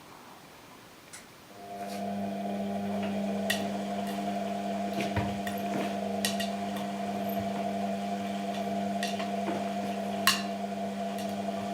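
Washing machine running: a steady electric hum that switches on about a second and a half in, with scattered clicks and knocks on top.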